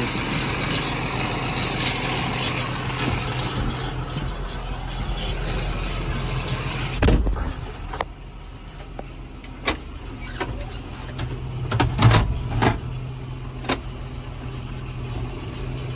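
Tractor engine running with a steady hum and broad noise; about seven seconds in there is a thump and the noise drops away, leaving the engine running more quietly while a handful of sharp clicks and knocks sound.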